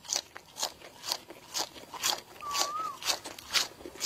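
Close-up crunching and chewing of a raw green vegetable stalk, crisp crunches about twice a second.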